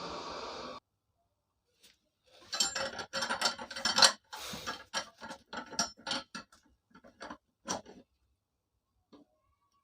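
Irregular metallic clinks and knocks of hand tools against steel chainsaw parts, a dozen or so over about five seconds, with the loudest near the middle. A steady hiss at the start cuts off abruptly under a second in.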